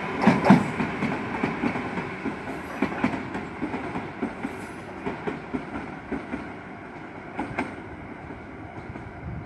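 Yamagata Shinkansen E3-series train running away on conventional track, its wheels clicking rhythmically over the rail joints. The rumble and clicks grow steadily fainter as the train recedes.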